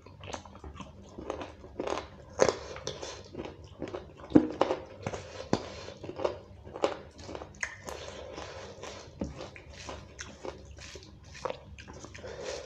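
Close-miked chewing and lip-smacking of a mouthful of beef curry and rice, with wet squishing of fingers mixing rice and curry on a steel plate. Irregular sharp smacks throughout, the loudest two a few seconds in.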